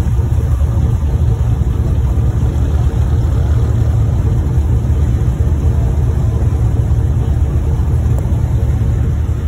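A vehicle engine idling close by: a steady, loud, low rumble.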